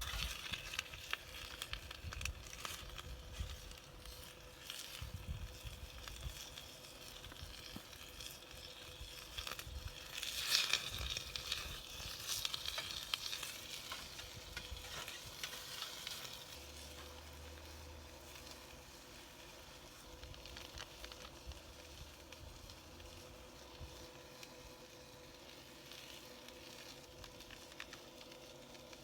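Food sizzling and frying in a cooking pot, stirred now and then, with small crackles; loudest about ten seconds in, then dying down after about sixteen seconds.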